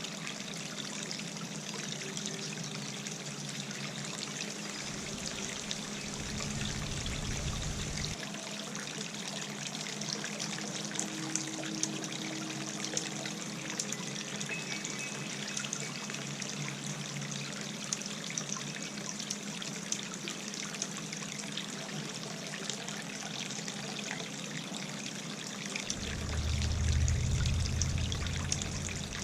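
Garden fountain water trickling and splashing steadily, with a steady low hum underneath. Wind rumbles on the microphone twice, about five seconds in and more loudly near the end.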